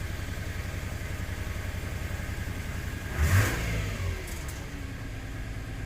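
2006 Subaru Tribeca's 3.0 L six-cylinder boxer engine idling roughly after a restart, with a brief rev about three seconds in that falls back to idle. The uneven idle is what the mechanic takes for a dead cylinder, the misfire he is chasing.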